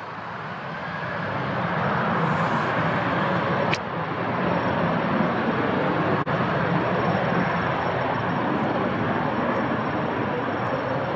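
Jet airliner engines at takeoff power during the takeoff roll. The sound builds over the first couple of seconds, then holds at a steady loud rush.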